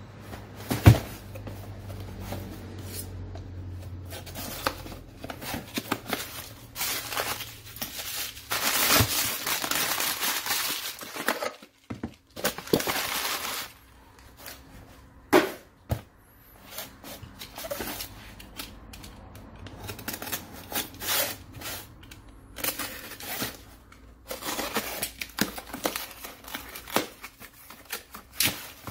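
Hands working on a stripped-down angle grinder: irregular clicks and knocks of metal and plastic parts being handled, with a sharp knock about a second in and stretches of crinkling, rustling noise.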